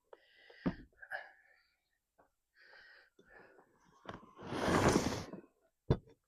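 A person's loud breathy burst, lasting about a second and a half and starting about four seconds in, with a couple of sharp clicks and faint muttering around it.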